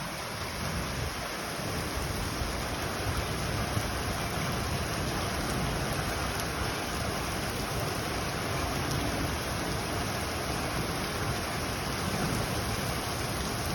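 Steady thunderstorm rain falling, an even hiss that builds a little over the first few seconds and then holds, with a low rumble underneath.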